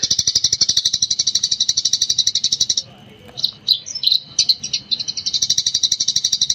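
Eurasian tree sparrow chirping in a rapid, unbroken run, about a dozen high chirps a second. The run breaks off a little before the middle, leaving a few scattered single chirps, then starts up again.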